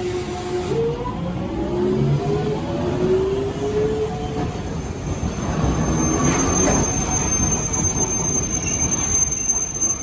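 Hiroden streetcar pulling away, its motor whine rising in pitch over the first few seconds over the rumble of the car. A thin, steady, high-pitched squeal follows for the rest of the time.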